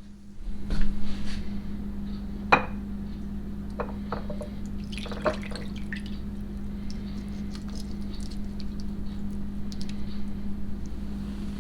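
Kitchen handling sounds: scattered clinks and taps of glass and dishware, with one sharp click a few seconds in, over a steady low hum.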